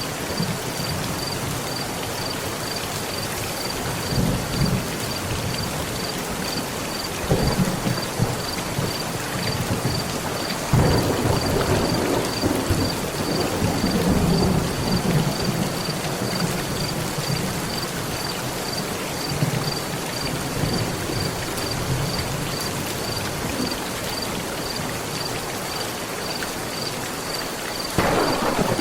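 Heavy rain drumming steadily on a metal roof, with rolls of thunder rumbling through it: small ones about 4 and 7 seconds in, a long heavy roll starting about 11 seconds in that lasts several seconds, and another beginning near the end.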